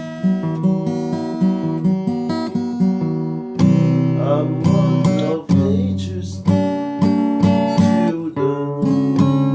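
Acoustic guitar being strummed and picked, a run of chords with quick note changes.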